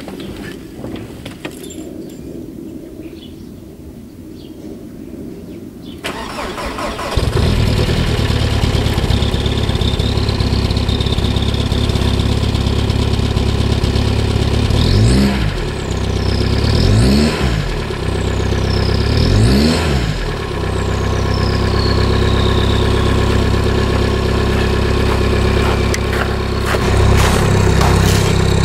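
1995 VW Golf Mk3 1.9 TDI direct-injection diesel cold-started at −5 °C without glow-plug preheat. It catches about seven seconds in and runs loud and steady, with no catalytic converter or centre muffler. It is revved up and down three times around the middle, then settles back to idle.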